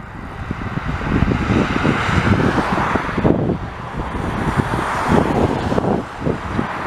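Rolls-Royce Trent 1000 engines of a Boeing 787-9 on takeoff, a steady jet roar, with wind buffeting the microphone.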